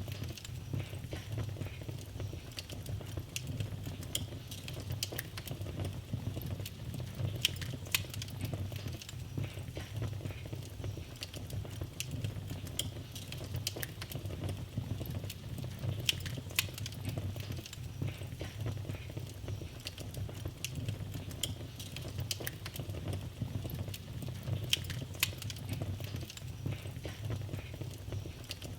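Wood fire in a fireplace crackling: frequent short sharp pops and snaps at irregular intervals over a steady low rumble of the burning fire.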